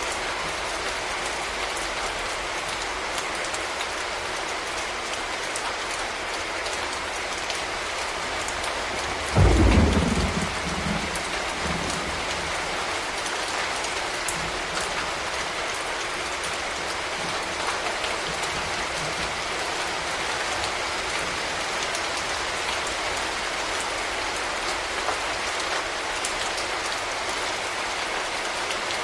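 Steady rain falling on a street, with a short, loud rumble of thunder about nine seconds in that fades over a couple of seconds.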